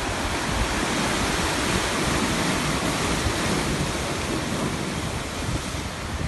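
Sea waves breaking and washing ashore: a steady rush of surf that swells a little near the middle and eases off.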